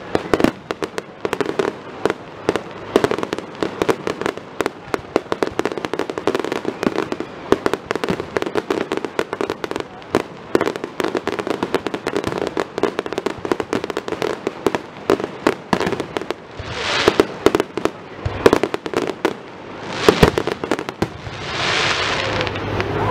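Fireworks display: a fast, unbroken string of bangs and crackles from aerial shells bursting. Near the end come two swells of rushing hiss.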